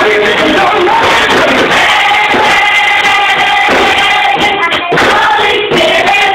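A children's choir singing a gospel song, loud and sustained.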